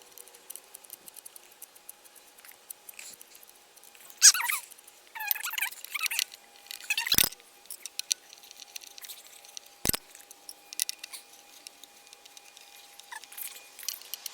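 Allen key clicking and scraping in the SCS clamp bolts as they are tightened, with scattered small metal ticks, brief squeaks a few seconds in and two sharp knocks.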